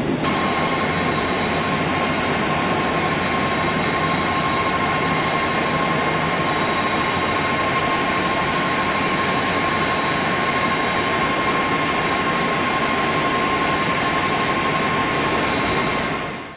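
Jet airliner engines running steadily: a broad rush with a steady high whine over it, fading out quickly at the end.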